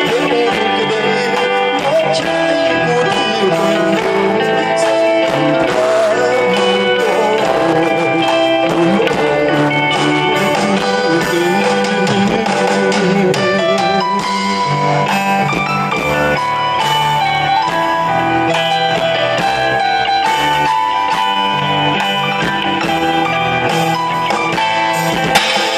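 A Khmer pop song played by a band, with no clear singing here, at a steady, loud level.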